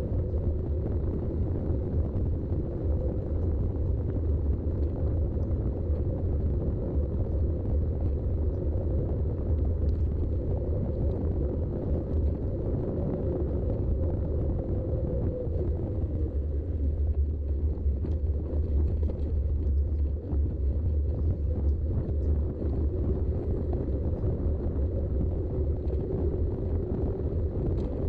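Steady rumble of wind on the action camera's microphone, together with the rolling noise of a Specialized Rockhopper 29" mountain bike's Schwalbe tyres while riding, with faint scattered ticks.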